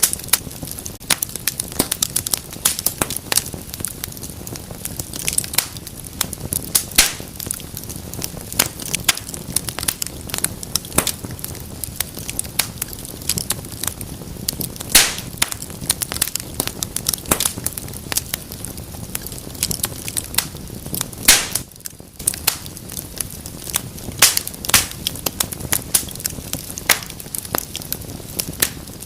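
Wood fire burning in a fireplace: steady crackling with many sharp pops and snaps, a few louder pops standing out.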